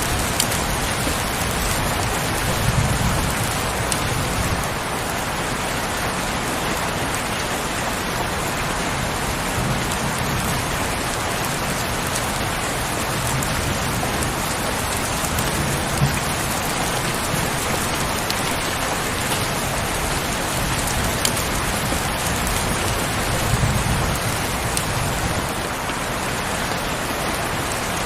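Heavy rain falling steadily, with a few soft low rumbles swelling and fading about three seconds in, around ten seconds and again later on, and now and then a sharper drip.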